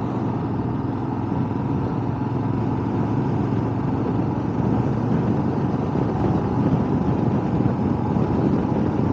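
Motorcycle engine running at a steady cruising speed, mixed with road and wind noise on the rider's microphone.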